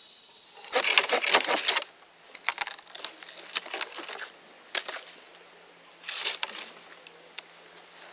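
Several bursts of crunching, crackling rustle with sharp clicks, the loudest about a second in, then shorter ones and a single click near the end.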